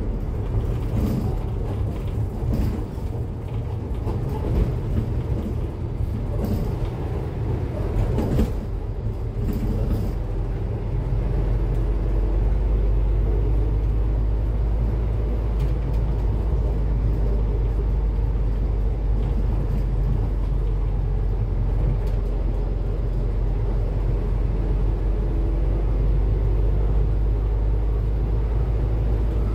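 Cummins ISF3.8 four-cylinder diesel engine of a Daewoo Lestar bus running, heard from inside the bus as a low drone. A few knocks and rattles come in the first ten seconds, and then the drone settles and grows a little louder and steadier.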